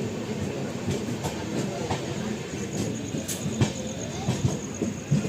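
Wheels of a moving LHB sleeper coach running on the rails: a steady rumble with irregular clicks and knocks, and a faint high whine joining about halfway.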